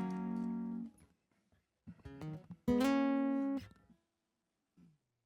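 Acoustic guitar strings plucked and left to ring between songs, as when tuning. A chord dies away in the first second, then come a few soft plucks and one loud ringing note about three seconds in that fades out.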